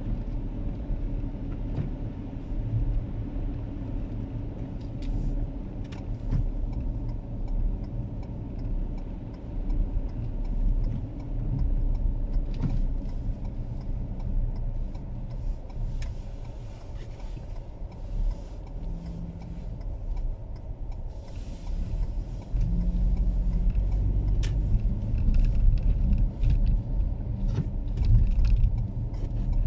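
Steady low rumble of a car heard from inside the cabin, with scattered small clicks and knocks and a brief hiss about two-thirds of the way through.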